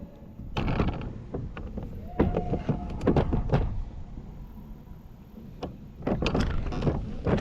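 Irregular knocks, taps and rustling in three bursts from handling a freshly caught bass aboard a plastic kayak.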